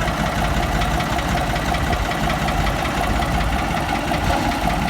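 Diesel tractor engine running steadily at low revs, with a fast, even low beat.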